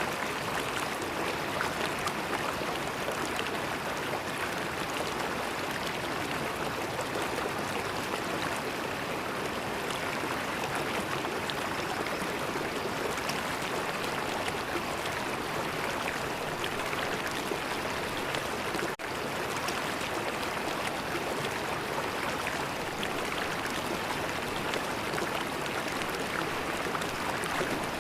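River water flowing steadily, an even rush and gurgle with no pauses. The sound drops out for an instant about two-thirds of the way through.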